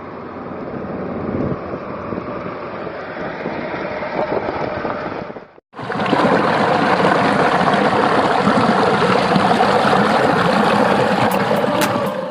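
Steady rush of water from a waterfall, breaking off briefly about five and a half seconds in and coming back louder and brighter.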